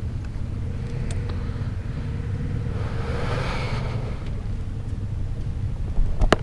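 Low, steady rumble of a vehicle engine running, with a rising and falling whoosh about three seconds in like a vehicle passing, and a sharp knock near the end.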